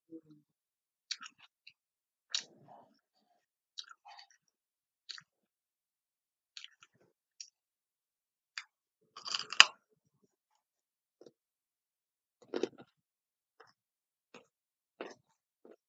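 Close-up eating sounds: chewing with small wet clicks of the mouth, a crunchier cluster of bites about nine to ten seconds in.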